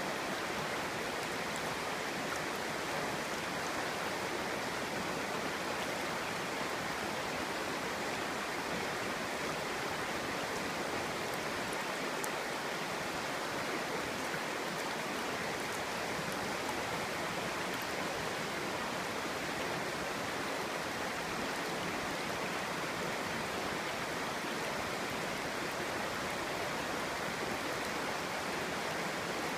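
Clear stream flowing over rocks, a steady even babbling and rushing of water.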